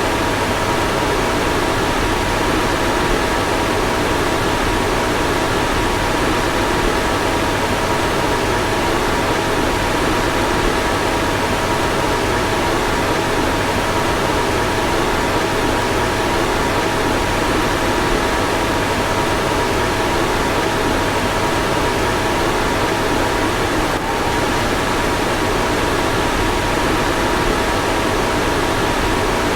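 Car fan blowing steadily: an even rush of air with a faint steady two-note whine, and a brief slight dip about three-quarters of the way through.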